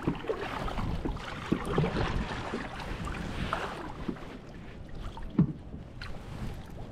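Sounds of a kayak out on the water: water noise and wind on the microphone, with scattered short knocks and clacks.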